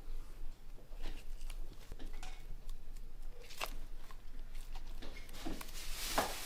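Workshop handwork noise: light, irregular scrapes and clicks of tools and hands on a small object, with a longer, louder scrape about six seconds in.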